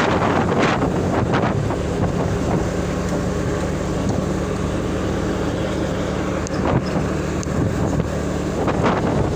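Truck engine running at a steady pace under way, a low even drone, with wind rushing over the microphone that is heaviest in the first couple of seconds.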